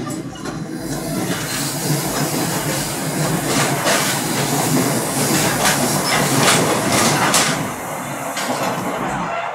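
NJ Transit commuter train running at speed, heard from inside a passenger car: a steady rushing of wheels on rail with scattered clicks and knocks from the track. It swells toward the middle and eases about three quarters of the way through.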